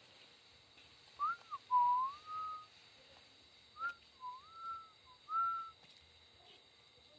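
A person whistling a short tune with clear gliding notes, in two phrases of rising and falling notes.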